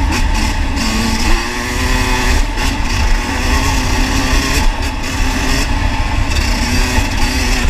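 Dirt bike engine running and revving, its pitch climbing and dropping as the throttle is worked, over a heavy low rumble.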